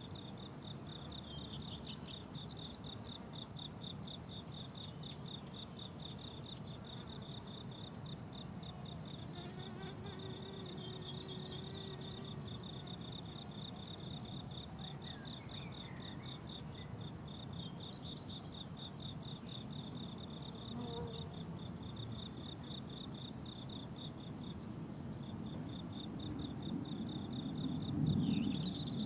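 Crickets chirping in a dense, high-pitched chorus of rapid, rhythmic pulses. A low rumble swells briefly near the end.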